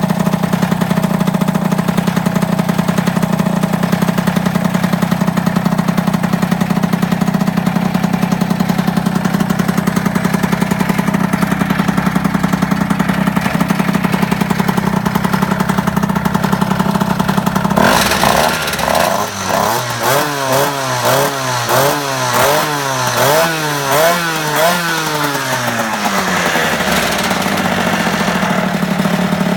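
MBK 51 moped's small two-stroke engine running on a top end that has just been fitted after 28 years in storage: it idles steadily, then a little over halfway through it is blipped up and down in a quick series of revs for several seconds before settling back to idle.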